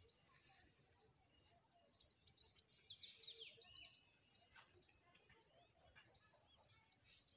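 A small bird singing rapid runs of high, falling chirps: a burst about two seconds in and another near the end, with a short whistled note in between.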